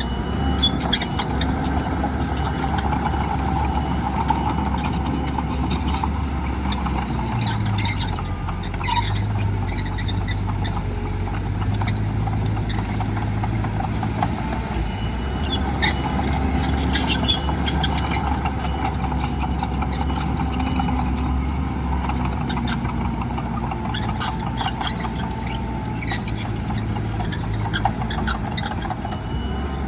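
Heavy diesel construction machinery running steadily, with the engine note dropping and rising a few times as the load changes. Scattered metallic clanks and knocks are heard throughout.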